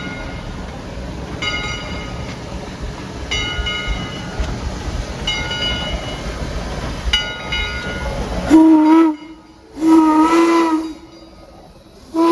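Steam locomotive bell ringing about once every two seconds over a low rumble. Then the steam whistle sounds a short blast and a longer one, and a third blast starts near the end.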